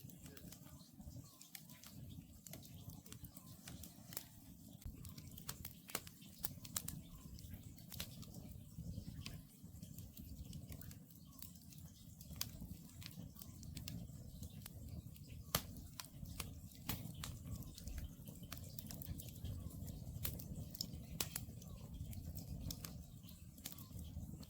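Wood campfire crackling: many irregular sharp pops and snaps over a steady low rumble.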